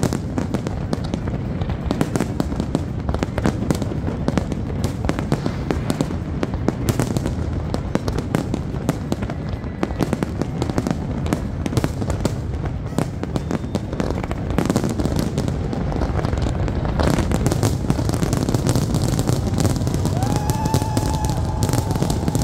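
Fireworks display going off without pause: a dense run of bangs and crackling from many shells bursting. Near the end, one long, high-pitched held call rises over it.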